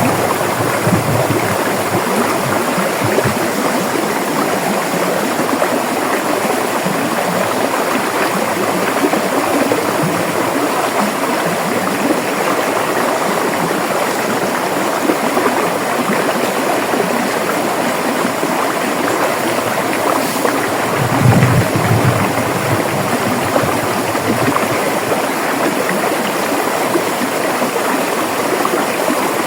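River water flowing steadily over rocks, a continuous rushing with bubbling, with a brief deeper surge a little past two-thirds of the way through.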